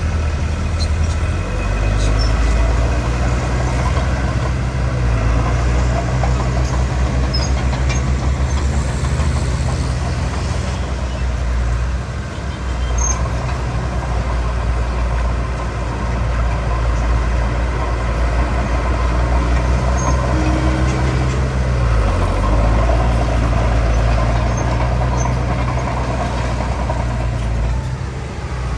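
Heavy diesel engine of earthmoving machinery running steadily, its low pitch shifting several times as it works.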